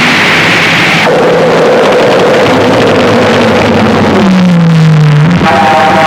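Harsh noise music: a loud, dense wall of distorted noise with electronic tones that slide in pitch, including a low tone sinking near the end, and abrupt changes about a second in and again just before the end.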